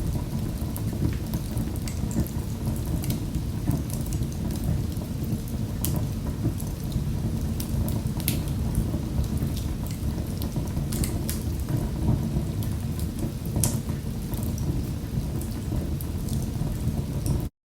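Wood fire burning in a fireplace: a steady low rumble of the flames with scattered sharp crackles and pops. The sound cuts off abruptly at the very end.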